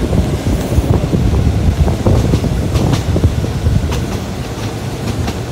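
Passenger train carriage running along the track, heard from an open window: a steady low rumble of wheels on rail, with irregular sharp clacks.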